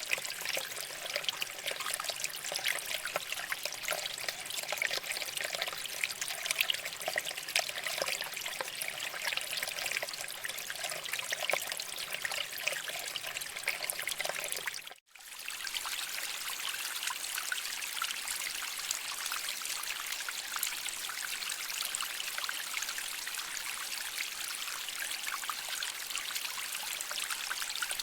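Shallow water flowing and trickling over rocks: a steady splashing rush full of small droplet splashes. About halfway through it drops out for a split second, then carries on a little smoother.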